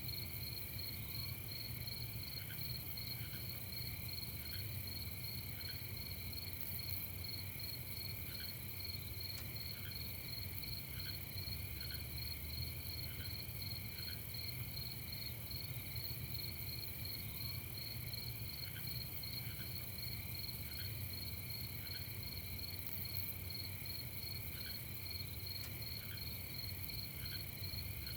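Steady night chorus of crickets and other insects trilling continuously at several pitches at once, over a faint low rumble. A faint short note repeats every second or so.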